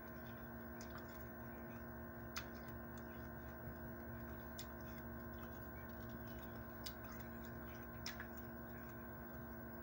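Mouth noises of someone chewing fruit: a handful of scattered, irregular clicks and smacks over a steady electrical hum.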